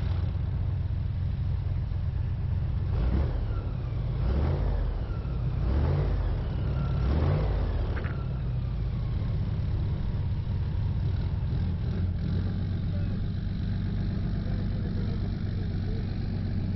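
Airboat engine and propeller running with a steady low drone, revving up four times in quick succession in the first half.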